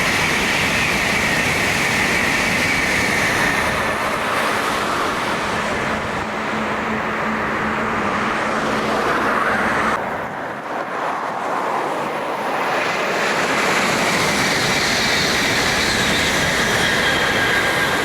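Sanyo Shinkansen high-speed train passing at speed, a loud steady rushing noise with a whining tone near the start. The sound drops off abruptly about halfway through, then builds again.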